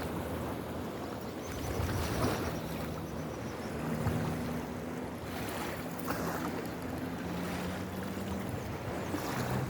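Wide river water rushing, with wind gusting on the microphone. A low steady hum comes in about two and a half seconds in, and a faint high trill is heard briefly near the start.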